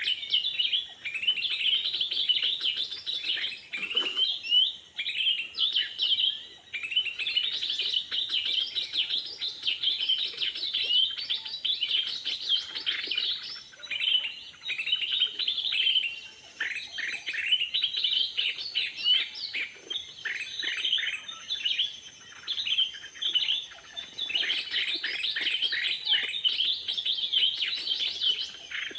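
Small birds chirping continuously: dense, rapid runs of short high notes with only brief pauses.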